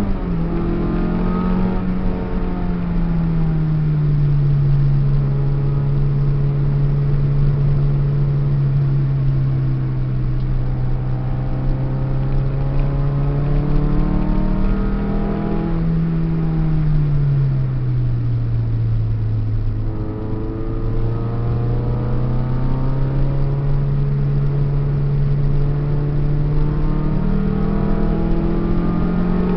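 Peugeot 306's four-cylinder engine heard from inside the cabin while driving. Its note falls over the first few seconds, holds steady, rises about halfway through, then drops to its lowest before climbing again near the end.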